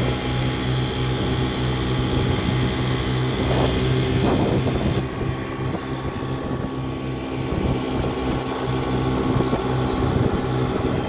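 A boat's engine running steadily under way, with a high hiss that drops off about five seconds in.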